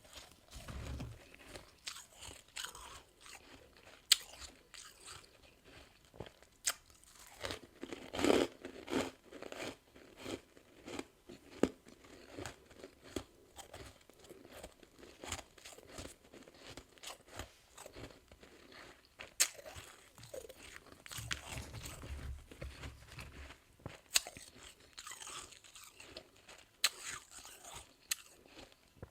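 A person biting and chewing soft freezer frost, making repeated irregular crunches that are loudest about eight seconds in.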